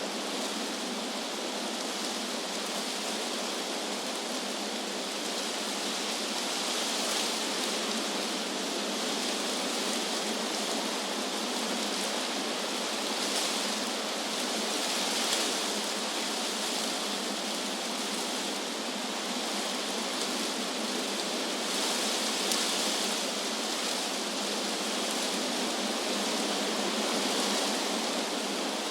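Wind rustling through tree leaves: a steady hiss that swells gently every few seconds.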